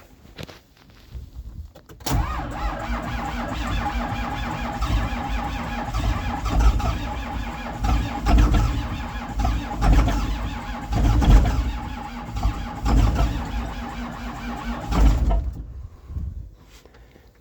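John Deere 7810's six-cylinder diesel being cranked on a cold start: the starter kicks in suddenly and cranks for about thirteen seconds with a steady whine and uneven heavy thumps, then stops without the engine running on.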